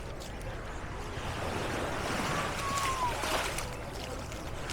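Beach ambience: small sea waves washing on the shore, with a faint distant voice a little past halfway.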